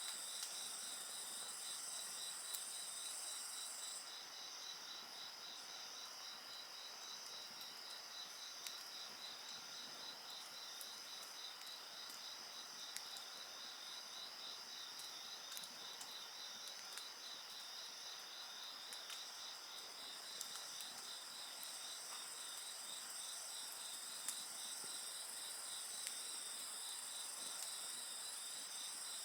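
Crickets and other insects calling: one gives an evenly pulsed chirp, while a higher, steady trill stops about four seconds in and comes back near the end. A wood fire crackles with scattered small sharp pops.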